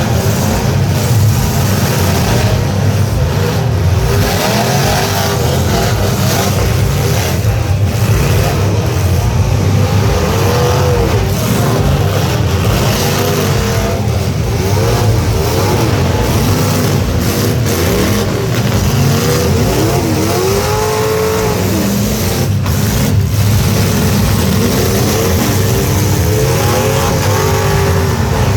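Truck engines at a demolition derby revving up and down over a heavy low rumble, their pitch repeatedly rising and falling.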